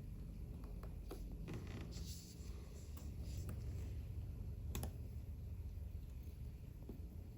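Scattered faint clicks and light scratching of small watchmaker's tools working on a wristwatch movement, over a low steady hum.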